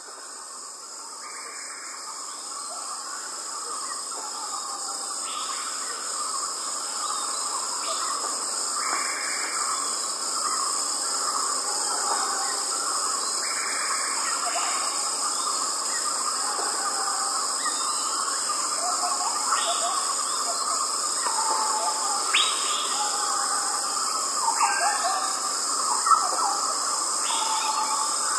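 Tropical forest chorus of crickets chirping, a steady, dense high-pitched shrilling with several layered pitches, with short bird calls scattered over it. It fades in over the first few seconds.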